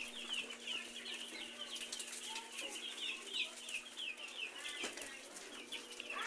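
A flock of three-day-old broiler chicks peeping continuously, many short falling chirps overlapping.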